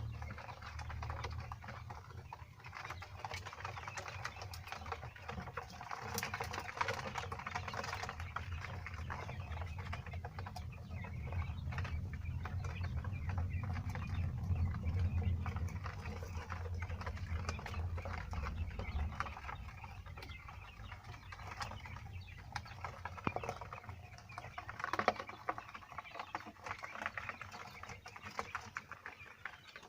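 Five-day-old Texas quail chicks moving about, with many small taps and pattering. A steady low hum under them stops about two-thirds of the way through.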